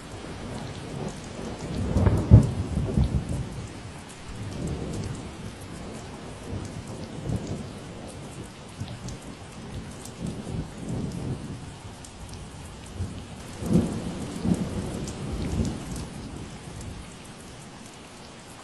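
Steady rain falling, with rolling thunder rumbling over it in several swells, loudest about two seconds in and again near fourteen seconds, dying away near the end.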